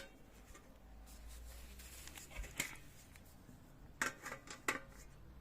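Tiers of a manty steamer being handled and stacked: a few faint, light clinks and knocks, one about halfway through and a short cluster near the end.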